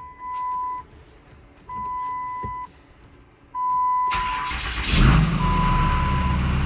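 The dashboard warning chime beeps steadily, about a second on and a second off. About four seconds in, the Dodge Cummins turbo diesel engine cranks and fires, then settles into a steady idle with the chime still beeping.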